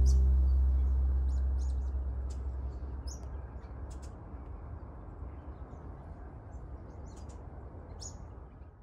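Birds chirping and calling in short, high notes scattered throughout, over a low steady background noise. A strummed acoustic guitar chord from background music rings and fades out over the first few seconds.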